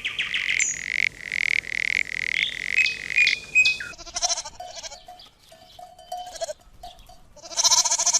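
A farm animal bleating. A high, held call is cut into short pieces for the first half, then come shorter pitched calls and one loud, full bleat near the end.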